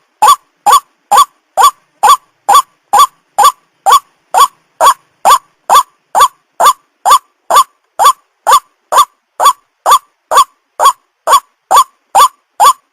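White-breasted waterhen (ruak-ruak) calling: one short, hooked 'kruak' note repeated over and over at a very even pace, a little over two a second.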